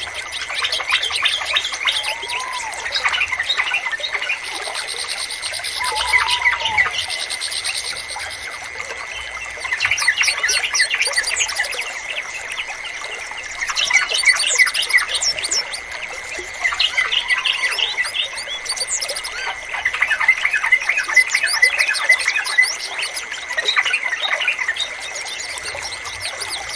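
Yellow-vented bulbuls (trucukan) chirping in a busy, overlapping chorus of quick notes and short trills, in bursts that swell and ease every few seconds. A few slower, lower arched calls stand out now and then, and a thin steady high tone runs underneath.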